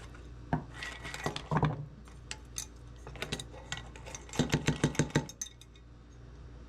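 Clinking and rattling of an old lantern as it is handled and cleaned, with scattered knocks and then a quick run of about seven clanks in under a second.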